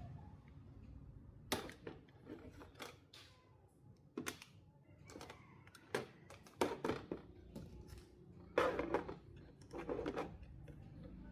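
Irregular clicks and light knocks of small hard objects being handled, with a short clattery burst about two-thirds of the way in, over a low background hum.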